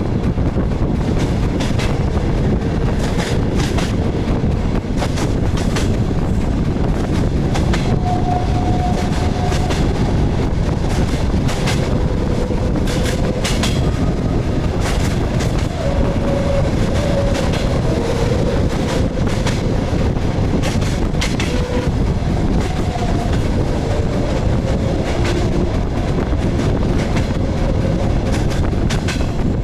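DR1A diesel railcar running along the line, heard from aboard: a steady rumble of wheels on the rails, with clicks at irregular intervals as the wheels pass over rail joints.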